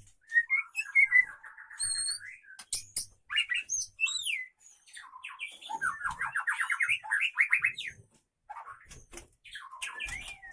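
White-rumped shama (murai batu) singing a varied song: fast trills, twice held for a second or more, between whistled notes that rise and fall.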